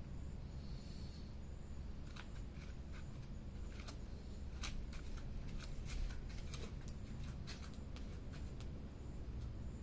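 Wood fire crackling: irregular sharp pops and snaps of burning wood over a low steady rumble.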